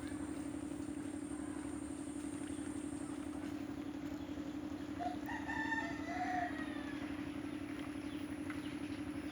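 A rooster crows once about five seconds in, over a steady low hum like a running engine.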